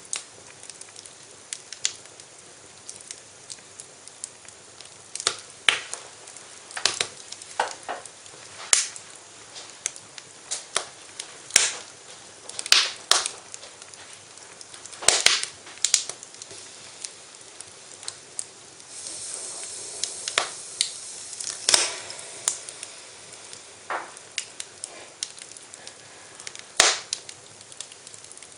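Wood fire in a fireplace crackling, with irregular sharp pops and snaps over a low hiss and a few seconds of steady hissing about two-thirds of the way through.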